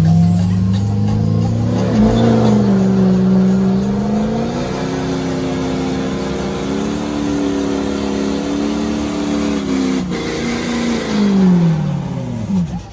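Ford truck engine revved hard and held at high rpm, its pitch wavering up and down for about ten seconds. Near the end it drops away sharply as the truck is neutral-dropped into gear through its 5R110 automatic transmission.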